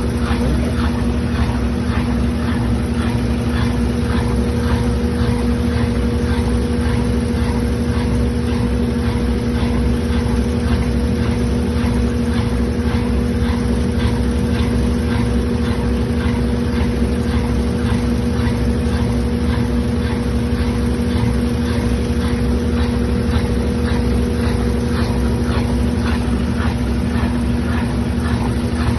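Washing machine in its spin cycle: a steady motor hum at constant speed, with a faint ticking that repeats evenly throughout.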